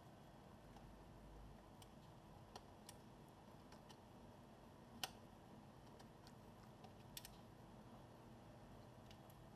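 Faint, scattered small clicks and taps from handling laptop parts during disassembly, the loudest about halfway through, over near silence.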